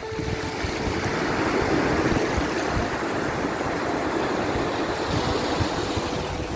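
Sea waves washing in, a dense rush of surf that swells about a second in and then settles.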